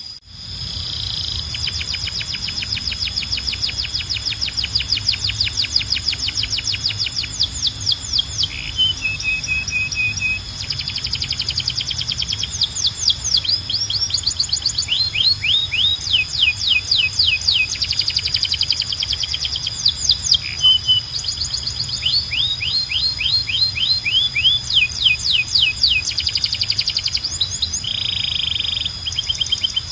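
Domestic canary singing: long, fast rolling trills of rapidly repeated notes that switch speed and pitch every second or two, with a few short buzzy bursts, over a low steady hum.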